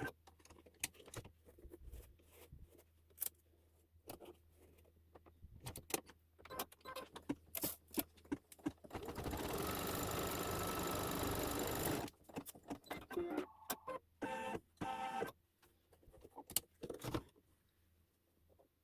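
Embroidery machine sound, fast-forwarded: a rapid run of clicks and clatter, with a steady whirring stretch of about three seconds in the middle.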